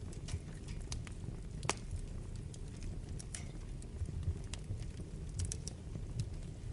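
Wood fire burning in a fireplace: a low steady rumble of flames with scattered sharp crackles and pops. The loudest pop comes almost two seconds in.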